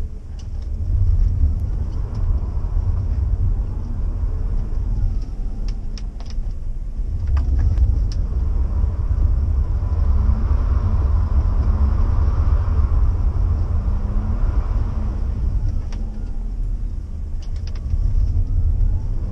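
Engine and road rumble inside the cabin of a BMW E46 3 Series with a manual gearbox. The engine note rises and falls several times as it is revved through the bends, and a few short clicks come in two clusters, around a third of the way in and again near the end.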